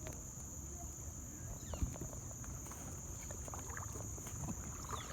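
Kayak on a river: small water splashes and drips from paddling, with one sharp knock on the hull about two seconds in, over low wind rumble on the microphone.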